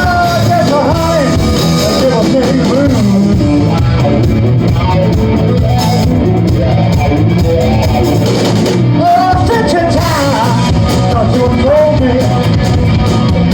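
Live rock band playing with a male vocalist singing, recorded on a mobile phone with rough, low-quality sound.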